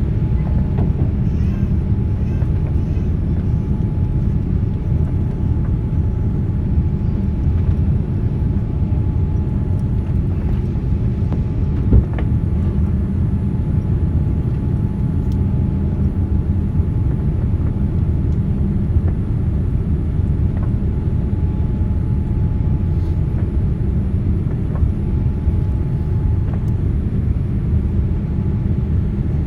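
Steady low rumble in the cabin of a jet airliner taxiing before takeoff: the engines running with a faint steady whine over the rumble. There is one short knock about twelve seconds in.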